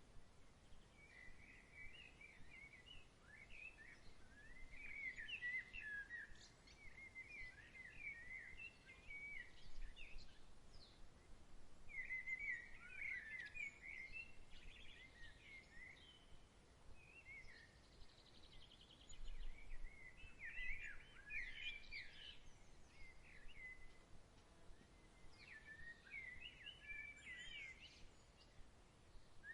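Songbirds chirping faintly in bouts of quick, twittering phrases, over a soft steady hiss of evening outdoor air.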